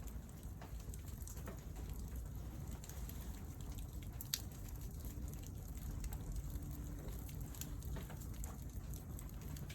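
Wood fire crackling with scattered small pops and one sharper pop about four seconds in, over a steady low rumble.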